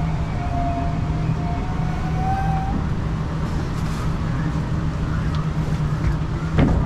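MTR East Rail Line R-Train electric train in motion: a steady rumble of wheels on rail with a low hum and a traction-motor whine that fades about three seconds in and comes back slightly higher near the end. A single short knock sounds just before the end.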